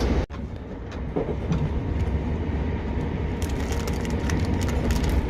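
Interior noise of a Southern Class 377 electric train in motion: a steady low rumble of wheels on rail with faint clicks, broken by a momentary dropout shortly after the start.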